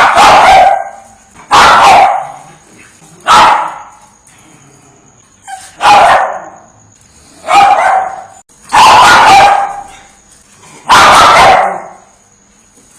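Chihuahua barking: about seven loud, high-pitched barks, one every second and a half to two seconds, some coming as quick doubles.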